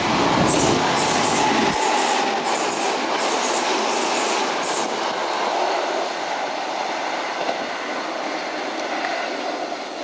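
Sanyo Electric Railway electric train passing through the station without stopping. Its wheels give a quick run of clacks over the rail joints in the first five seconds, then the running noise fades steadily as the train moves away.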